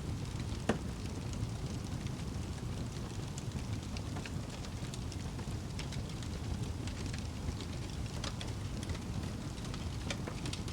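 Wood fire burning in a fireplace: a steady low rumble of flames with scattered sharp crackles and pops at irregular intervals, the loudest pop about a second in.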